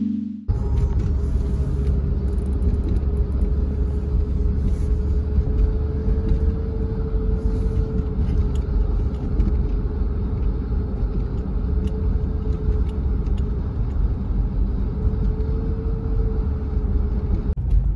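A car driving on the road: a steady low rumble of road and engine noise, with a faint hum that wavers slightly in pitch.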